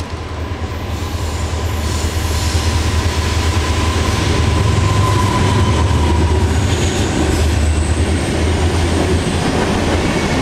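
Freight train rolling, heard from between the cars: a steady, loud low rumble that builds over the first few seconds, with a thin wheel squeal strongest around the middle.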